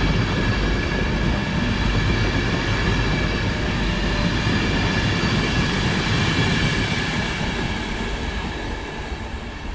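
Class 91 electric locomotive with its InterCity 225 train pulling out of the station: a steady electric whine of several high tones over the rumble of wheels, easing off from about seven seconds in as it draws away.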